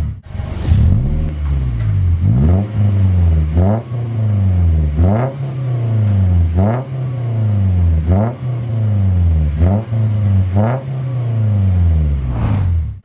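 Daihatsu Gran Max pickup engine breathing through an NDK aftermarket full exhaust system (4-2-1 header, straight resonator, DK-03V4 muffler), blipped repeatedly while parked: about nine short revs, each rising and falling back, roughly one every second and a half.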